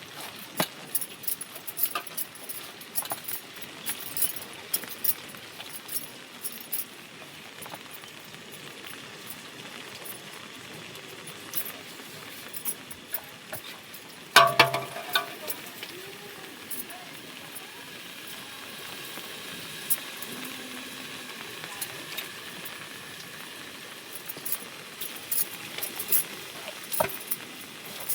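Scattered light clicks and clinks, with a short pitched call about halfway through.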